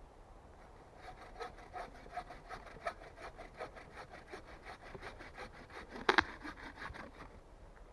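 Hand saw cutting through wood in quick, regular strokes that start about a second in and stop shortly before the end, with one louder sharp knock about six seconds in.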